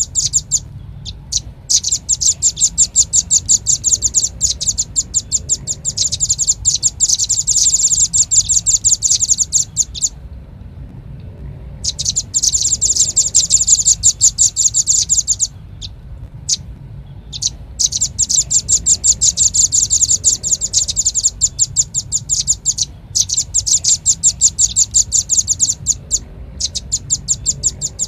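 Velvet-fronted nuthatch calling: long, rapid trains of sharp, high chipping notes, broken several times by pauses of a second or two.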